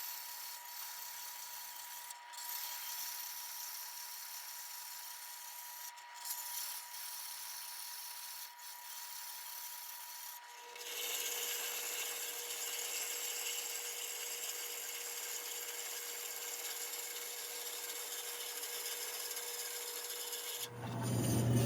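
Power saw cutting the corners off a soldered brass plate blank, a steady hiss with a constant whine. A few brief breaks come in the first half; about halfway through, the whine drops lower and the cutting noise gets louder.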